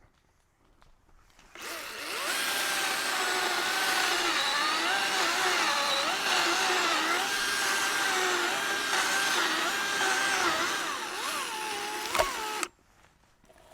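Chainsaw running at high speed, its whine wavering up and down as it cuts wood. It starts about a second and a half in and stops abruptly near the end.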